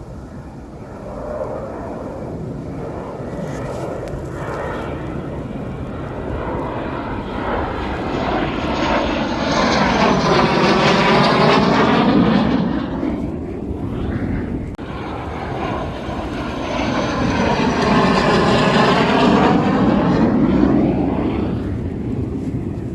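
Airplane flying over, its engine noise swelling to a peak and fading twice in succession.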